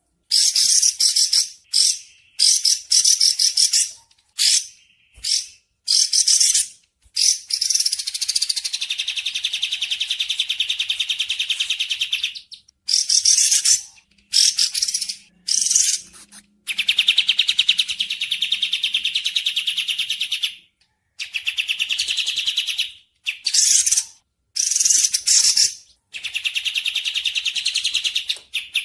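Bird song: high-pitched, very fast trilling runs of repeated notes. The runs come in bursts separated by short silent gaps, the longest lasting several seconds.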